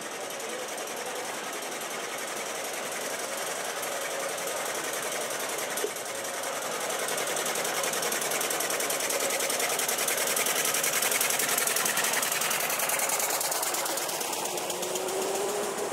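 Antique car's engine running with a fast, even clatter as the car drives through the covered bridge, growing louder as it comes close and passes, then fading.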